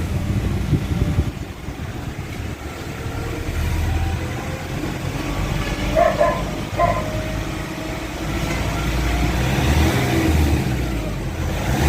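Nissan's engine running under way, heard from inside the cabin, its rumble swelling and easing as the throttle is worked at around 1,500 rpm. Two short high blips sound about six seconds in.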